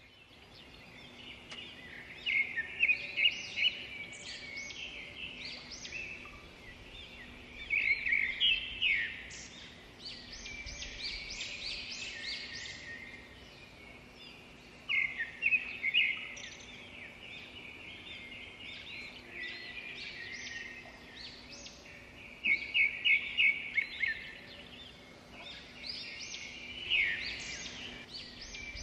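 Several small birds chirping and singing at once, in bursts of rapid chirps every few seconds, over a steady low background.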